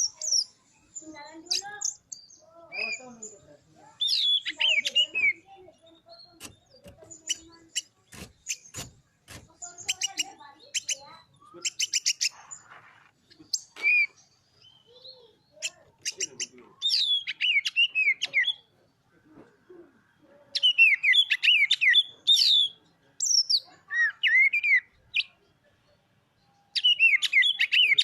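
Oriental magpie-robin (kacer) singing in bursts of rapid, varied whistled phrases with fast up-and-down sweeping notes, broken by short pauses. About eight to twelve seconds in, a run of sharp clicking notes comes in.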